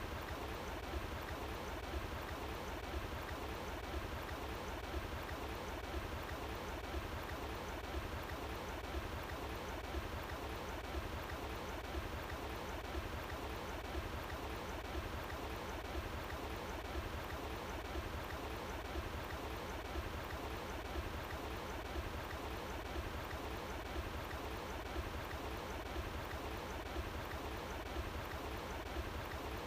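Running water flowing steadily: an even, unbroken rush of water.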